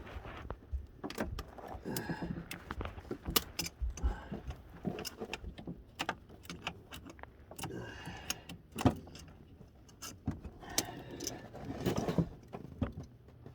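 Irregular metallic clicks, clinks and short scrapes of hand tools working at a small pinch clamp on a hose of a snowmobile engine.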